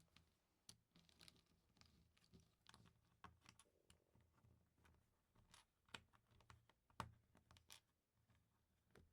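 LEGO bricks and plates being handled and pressed together: faint, irregular small plastic clicks and scratches, with two sharper clicks about six and seven seconds in.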